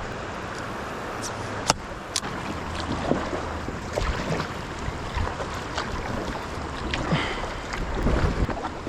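Flowing river water rushing steadily around a kayak, with scattered sharp clicks and low knocks and some wind on the microphone.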